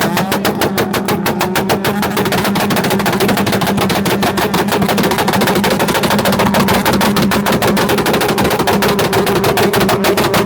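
Modified Honda Civic hatchback exhaust crackling and banging in a rapid, unbroken machine-gun-like string over a steady engine note. It is a flame map (ignition-cut tune) firing unburnt fuel in the exhaust.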